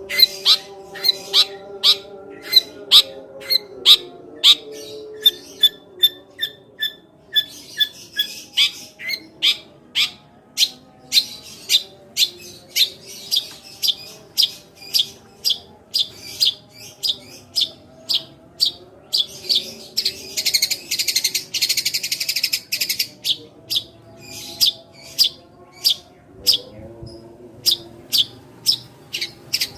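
Eurasian tree sparrow (burung gereja) giving rapid 'tembakan' calls: a steady string of sharp chirps about two a second, with a burst of dense, harsh chattering a little past the middle.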